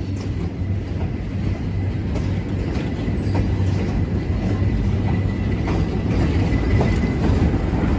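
Passenger train rolling along the track, heard from on board: a steady low rumble with scattered faint clicks of the wheels, growing slightly louder.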